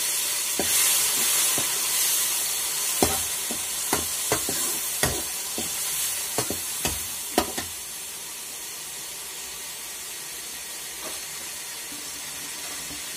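Chopped tomatoes sizzling in hot oil in a metal kadai, with a steel ladle knocking and scraping against the pan as they are stirred through the first half. The stirring stops about eight seconds in, and the sizzle settles to a quieter steady hiss.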